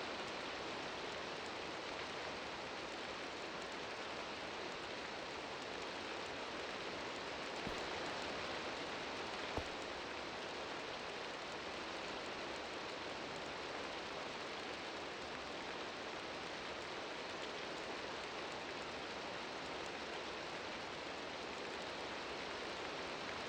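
Steady rain falling, a continuous even patter, with two brief knocks about eight and ten seconds in.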